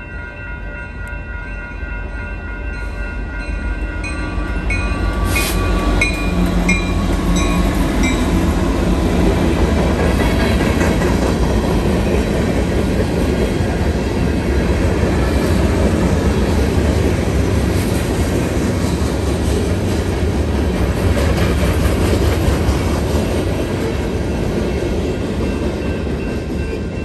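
Union Pacific freight train rolling through a grade crossing, its cars rumbling past on the rails; the rumble builds over the first few seconds and then holds steady. The crossing bell rings in even strokes during the first several seconds, and there is one sharp clank about five seconds in.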